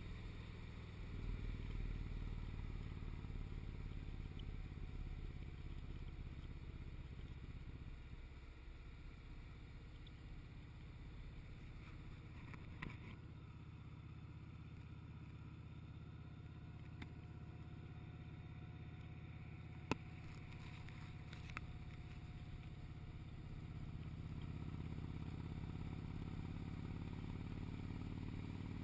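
Motorcycle engine running steadily while riding, easing off in the middle and picking up again near the end. A few sharp clicks come partway through.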